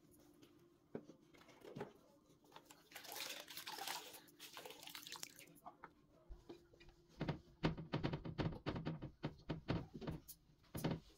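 Household cleaning sounds: a short spell of water hiss, then a quick run of knocks and clatters of objects being handled.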